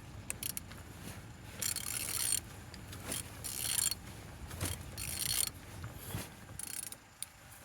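A 1.6 TDI diesel engine (code CAYC) being turned over by hand with a wrench on the crankshaft: four strokes of metallic ratcheting and clicking about a second and a half apart. The engine turns freely, "turning good", not seized.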